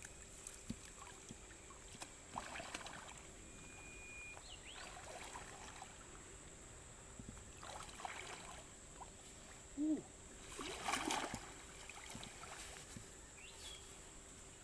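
Water sloshing and trickling in several short bursts, loudest about ten to eleven seconds in.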